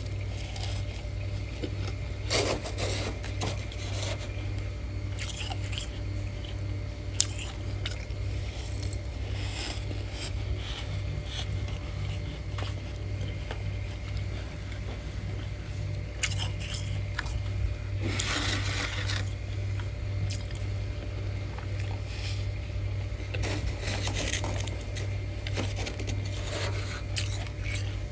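Freezer frost being scraped and bitten close to the microphone: scattered crunchy, squeaky scrapes and bites, the longest about two-thirds of the way through. A steady low hum runs underneath.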